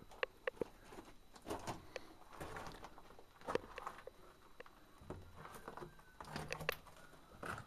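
Quiet, scattered crunches and knocks of footsteps and handling on a rocky mine floor, irregular and without a rhythm.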